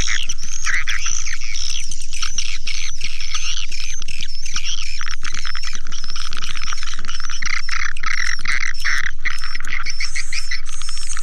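Swiftlet lure call: a dense chorus of edible-nest swiftlet chirps and twitters, many overlapping, with quick clicks among them and a steady low hum underneath.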